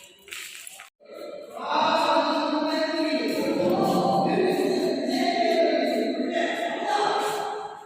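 Yakshagana singing: long held, wavering notes of the sung narration, starting about a second and a half in after a brief pause.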